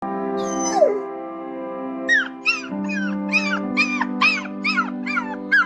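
A puppy giving a rapid series of short, high-pitched cries, about two to three a second, starting about two seconds in, over background music.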